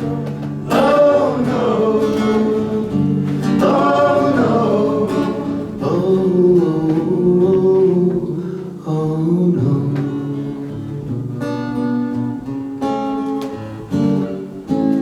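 Acoustic guitar playing with a voice singing a wordless melody over it; from about nine seconds in the guitar carries on mostly alone.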